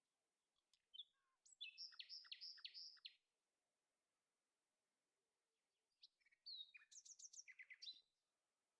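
A small bird singing: two quick phrases of high chirps, one about a second and a half in and another about six seconds in, with quiet between.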